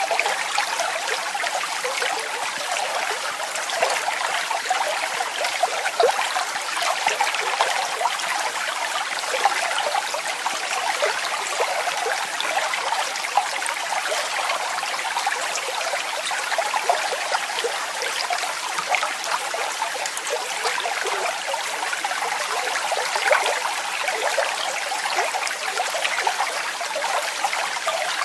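Waterfall: water falling and splashing in a steady rush, full of small splashes and with little low rumble.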